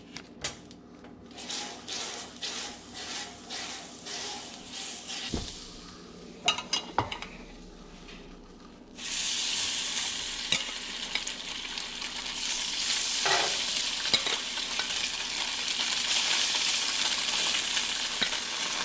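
Butter sizzling in hot oil in a cast iron skillet, with a few clinks of metal on the pan. About nine seconds in the sizzle jumps suddenly much louder and keeps building as blackened, butter-dipped striped perch fillets are laid in to fry.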